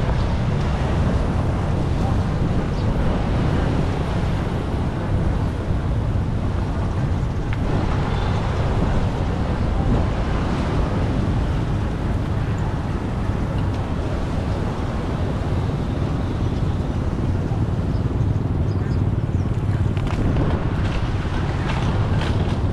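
Steady rushing of floodwater, loud and unbroken, with a few faint clicks near the end.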